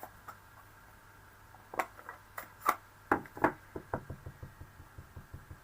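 Light taps and clicks of a blending brush being dabbed on an ink pad and card, a few louder ones at first, then lighter taps coming about five or six a second in the second half.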